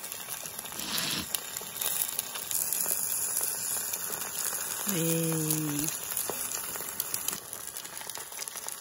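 Egg and ham sizzling in a hot cast iron skillet, a steady crackling hiss that gets louder for a few seconds as a second egg is dropped into the oil. A short low hum sounds about five seconds in.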